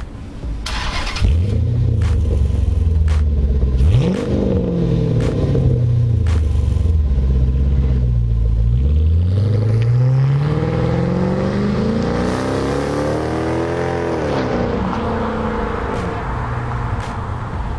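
A 2006 Dodge Charger Daytona's 5.7 L Hemi V8 runs through an exhaust of factory mid-pipes, straight pipes to the rear axle and Magnaflow resonators. It revs up sharply about four seconds in and falls away slowly, then climbs again over several seconds. It drops off near the end and settles to a steady low note.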